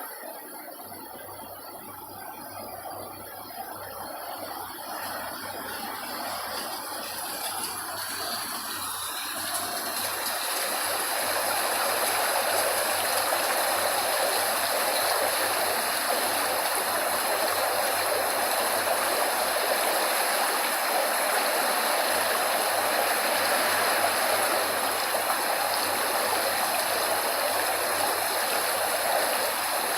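Steady rushing of running water, played as continuous white noise for sleep. It fades in over the first ten seconds or so, then holds even.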